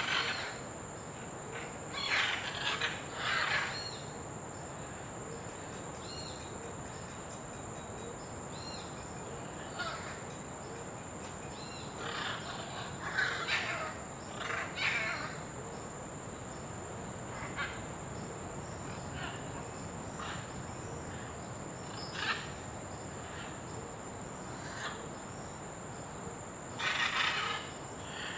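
Scarlet macaws giving harsh, raspy squawks in short bouts every few seconds, over a steady high-pitched insect drone.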